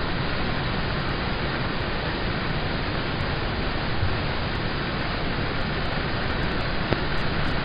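Steady, dense rain on a car, heard from inside the cabin.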